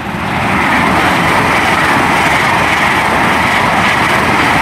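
Great Western Railway Class 800 Hitachi IET passing through the station at speed: a loud, steady rush of wheels on rail and air, building to full level about half a second in.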